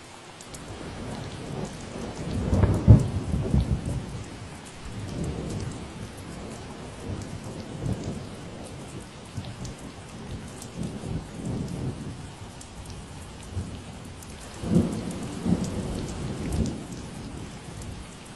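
Steady rain falling, a constant hiss dotted with sharp drop ticks. Low rumbling surges rise over it about two to four seconds in and again near the end.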